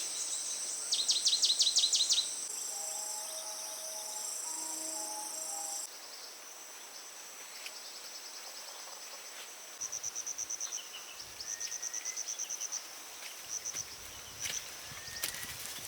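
Insects chirping in short bouts of high, pulsed trills, with a steady high-pitched whine over the first few seconds.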